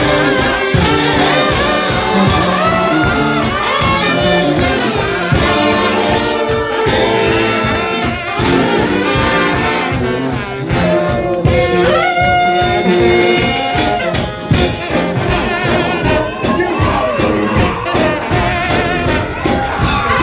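Gospel shout band of massed trombones and other brass playing an up-tempo instrumental, with drums keeping a steady, driving beat.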